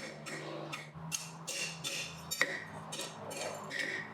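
Hand hammer striking a steel bar on an anvil, about two and a half blows a second, each with a short metallic ring, as the bar's end is bent into a square 90-degree corner; one sharper, louder strike about two and a half seconds in. A steady low hum runs underneath.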